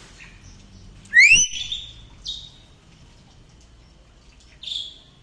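A bird giving three loud whistled calls. The first, about a second in, rises sharply in pitch and is the loudest; two shorter, higher calls follow, one just after two seconds and one near the end.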